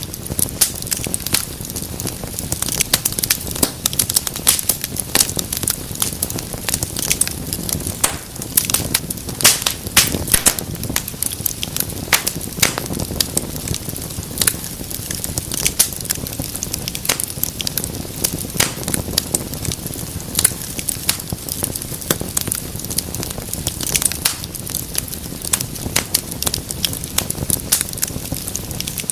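Fire crackling in a fireplace: frequent, irregular pops and snaps over a steady rush of burning.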